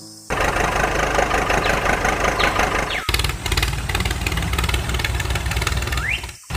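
Engine running steadily with an even low pulsing, like a tractor's. It cuts off abruptly twice, about three seconds in and near the end, each time just after a short rising whine.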